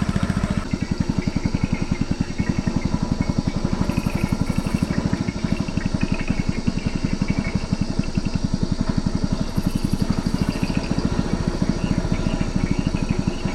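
Small boat's motor running at a steady, even beat.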